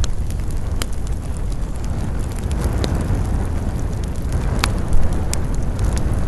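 Wood campfire burning: a steady low rumble with scattered sharp crackles and pops from the burning wood.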